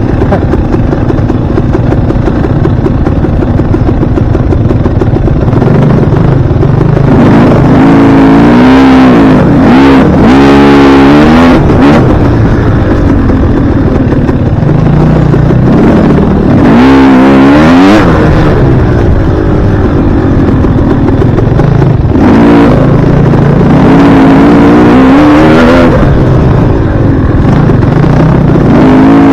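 Dirt bike engine being ridden hard, revving up and dropping back again and again as the throttle opens and closes.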